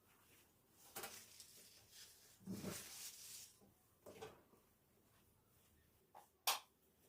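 Quiet, scattered handling noises: soft rustles and light knocks, with one sharp click near the end.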